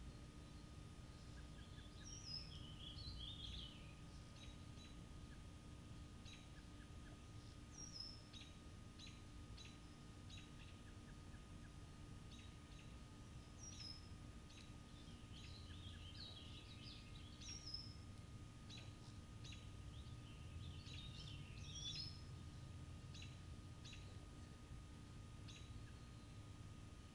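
Faint birds chirping: scattered short chirps and a high falling note that comes back every few seconds, over a low steady background rumble.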